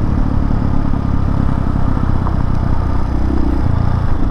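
Hawk 250 dual-sport motorcycle's single-cylinder engine running steadily at cruising speed, heard from the bike as it is ridden.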